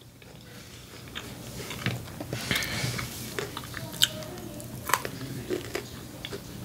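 Close-miked chewing of a shrimp taco: wet mouth smacks and irregular clicks, the sharpest about four seconds in.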